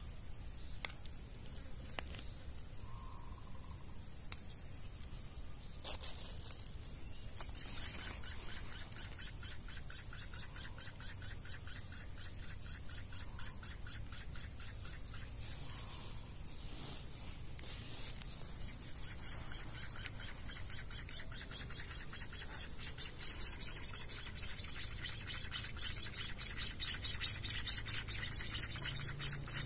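White-headed munia nestlings begging with a rapid, high-pitched chittering trill that grows louder over the last several seconds, as happens while they wait to be fed.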